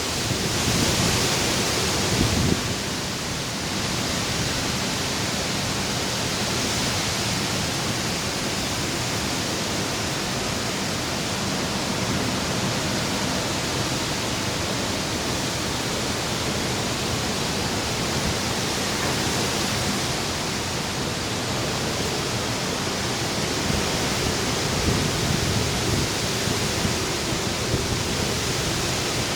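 Strong sea wind rushing steadily and buffeting the microphone, with heavier gusts near the start and again near the end.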